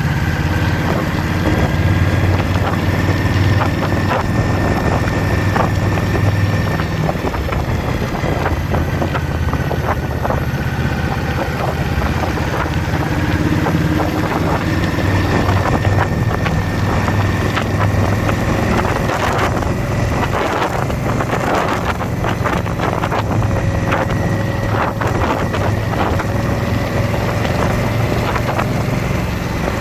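Indian motorcycle's V-twin engine running steadily at cruising speed, with wind rushing over the microphone.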